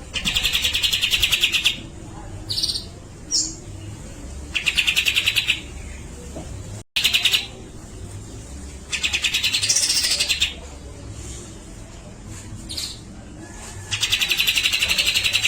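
Grey-cheeked bulbul (cucak jenggot) calling: four rapid rattling chatters, each about a second and a half long, with short single notes between them.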